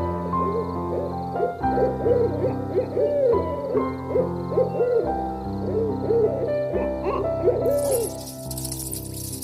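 Repeated rising-and-falling animal calls over background music with held chords; the calls stop and a hiss comes in near the end.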